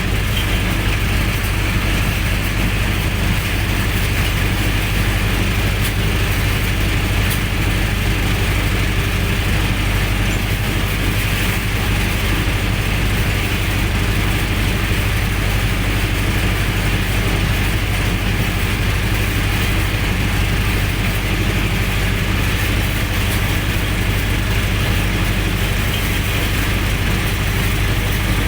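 Generator set's engine running steadily at a constant speed, a continuous heavy mechanical drone.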